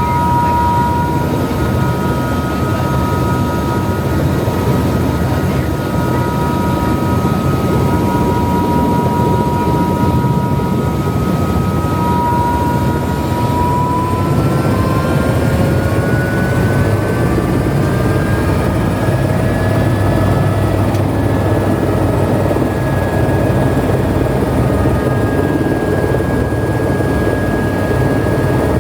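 Tour helicopter running: a steady rotor and engine rumble under a turbine whine that rises in pitch about halfway through and then holds at the higher pitch.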